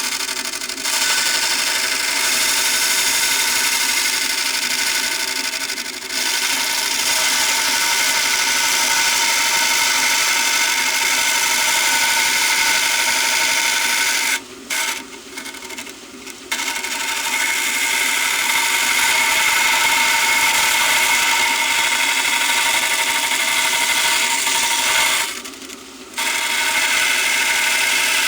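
Belt sander running, its abrasive belt grinding against a pen, a steady high-pitched grinding with a motor hum beneath. The sound drops away abruptly for a second or two a few times.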